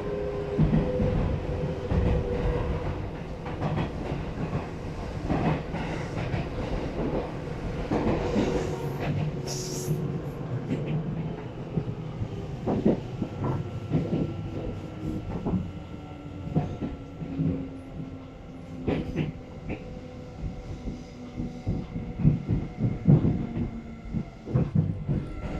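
Running sound inside a Seibu 9000 series car (rebuilt with a Hitachi 2-level IGBT VVVF inverter): rumble with wheels knocking over rail joints and points, and a faint inverter whine slowly falling in pitch as the train slows. A brief high squeal about ten seconds in.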